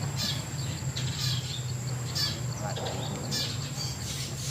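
Birds chirping in short, high calls about once a second, over a thin, steady high-pitched insect drone and a constant low hum.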